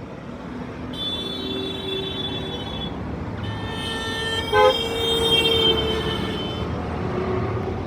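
Road traffic going by with vehicle horns honking: several overlapping horn tones over a few seconds, with a short sharp blast about four and a half seconds in.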